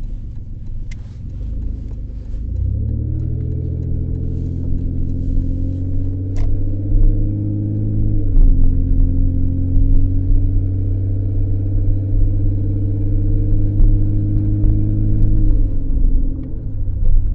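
Engine and road noise inside a 2003 Ford Escape's cabin on a test drive. The engine pulls with a rising pitch from about two seconds in, drops suddenly about eight seconds in as the transmission shifts up, climbs again and eases off near the end. A few sharp knocks come through, which the driver puts down to suspension noises such as a failing sway bar link.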